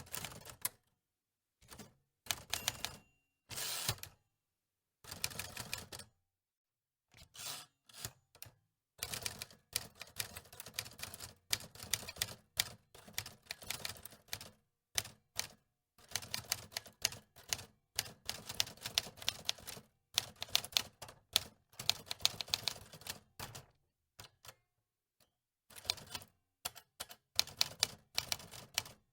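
Antique manual typewriter being typed on: runs of rapid key strikes clacking, broken by short pauses.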